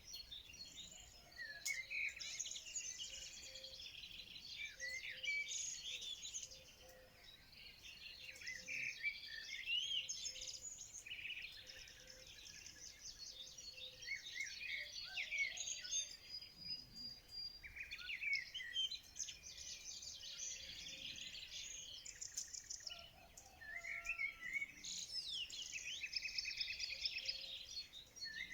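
Several songbirds chirping and singing at once, with overlapping quick trills and twitters that come in bouts with brief lulls, over a faint steady background hiss.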